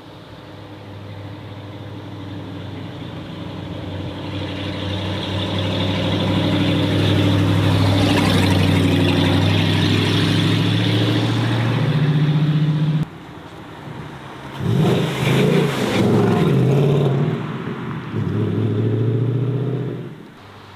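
A car engine grows louder as it approaches and passes close by. After a sudden cut about thirteen seconds in, a car engine revs hard in several short blips, the pitch jumping up and falling back each time.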